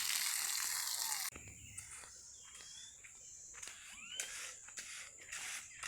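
Outdoor sound: a loud, steady hiss of rain for about the first second, cutting off suddenly. Then a quieter scene follows, with short rising bird chirps over a steady high-pitched insect drone and a few faint clicks.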